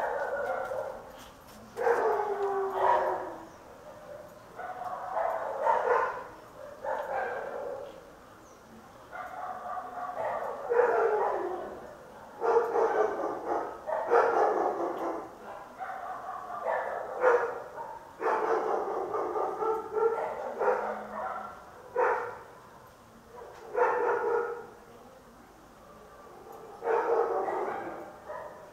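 Dogs barking and yelping over and over, in loud bursts every second or two.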